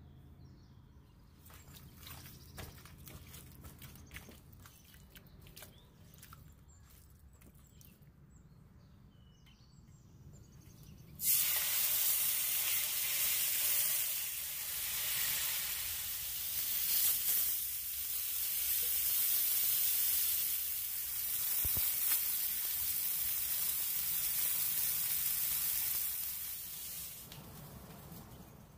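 Faint utensil clicks, then about eleven seconds in a loud sizzling starts suddenly: food frying in a hot pan. The sizzle runs steadily and fades out near the end.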